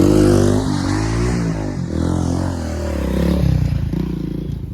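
Motorcycle engine running, its pitch rising and falling with the throttle, loudest at first and fading toward the end.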